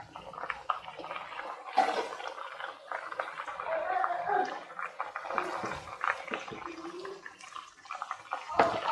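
Chicken pieces frying in coconut oil in a pan: a steady crackling, bubbling sizzle with a sharper pop about two seconds in.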